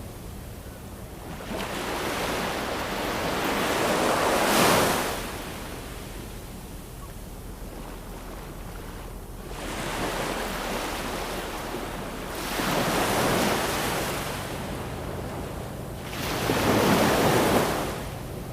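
Ocean waves breaking in slow surges over a steady wash of surf, four in all, the strongest cresting about four and a half seconds in and again near the end.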